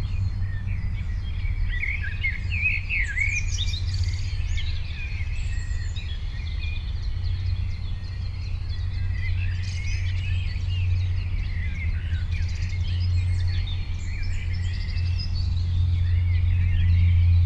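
Several songbirds chirping and singing at once, a dense overlapping chorus of short chirps and trills, over a steady low rumble.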